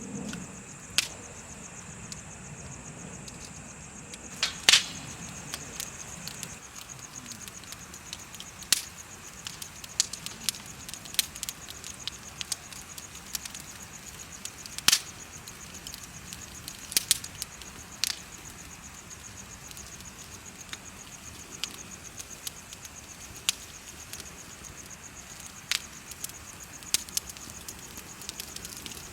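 Bonfire crackling with irregular sharp pops, the loudest about five seconds in and again near fifteen seconds. Steady high-pitched insect chirping, like crickets, runs underneath.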